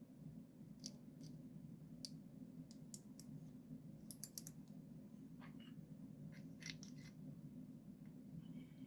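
Small, sharp plastic clicks from the Logitech Z623's controls being worked while it is tested after its switch and volume pot were cleaned, with a quick cluster of four clicks about four seconds in, over a faint steady low hum.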